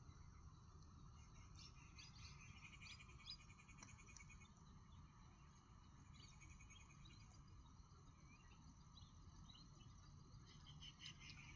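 Faint jungle ambience: insects chirping in rapid pulsed trills that come and go, with short high chirps scattered through and a steady low hum underneath.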